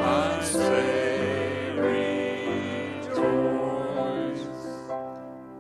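Group of voices singing a worship song with instrumental accompaniment, holding a final long note that fades away near the end.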